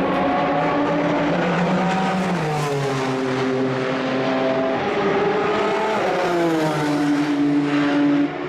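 Race car engines running at speed on a circuit, their pitch dropping in steps and glides, with a sudden change in the sound near the end.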